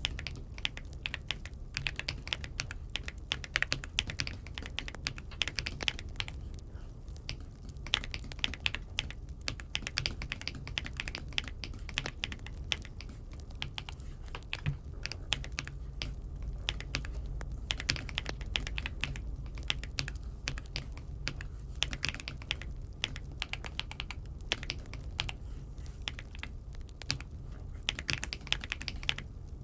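Aula F75 mechanical keyboard being typed on: irregular, quick key clicks throughout, over a low steady hum.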